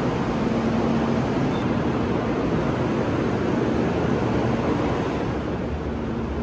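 Steady rushing noise with a faint low hum from a stopped 800 Series Shinkansen train's ventilation and onboard equipment running at the platform. It grows a little quieter about five seconds in, as the doorway is entered.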